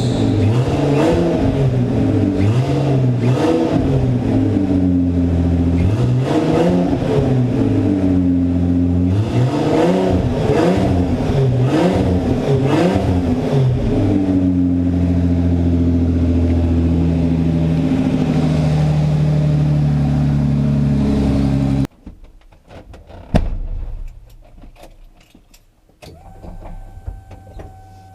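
Nissan Skyline R33 GTS-T's turbocharged RB25DET straight-six running open through only a downpipe, with no exhaust fitted, on its first start after a new turbo and exhaust manifold. It is blipped up and down repeatedly, then holds a steady note, and cuts off suddenly about 22 seconds in, leaving a few quieter clicks.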